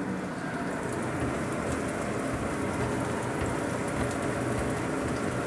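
Garlic sizzling in hot oil in a wok, stirred with a spatula: a steady frying hiss.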